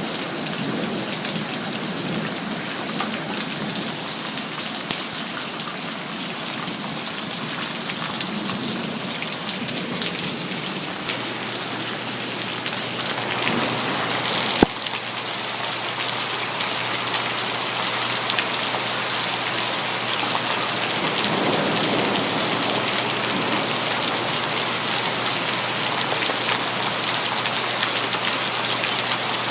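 Steady rain falling on city surfaces, a continuous even hiss, with a single sharp click about halfway through.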